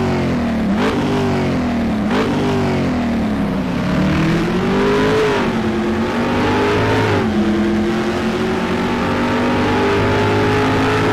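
Car engine revving: quick blips rising and falling in pitch about a second and a half apart, then a longer rise and drop, before it settles into a steady run whose pitch slowly creeps up.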